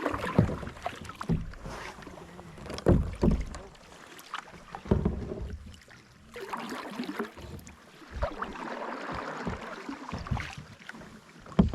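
Kayak paddling: irregular splashes and drips of water from the paddle strokes, with short knocks against the kayak.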